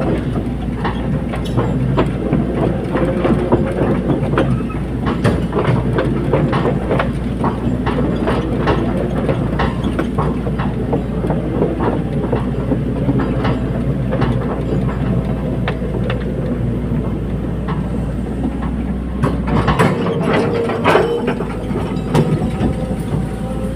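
Caterpillar 320D hydraulic excavator at work: its diesel engine running steadily under many irregular metallic clanks and knocks. The deepest part of the engine drone drops away about 20 seconds in.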